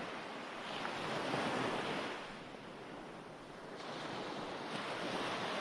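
Recorded ocean waves washing on a shore, a steady hiss of surf that swells and eases in slow surges: one peaking about a second and a half in, another building near the end.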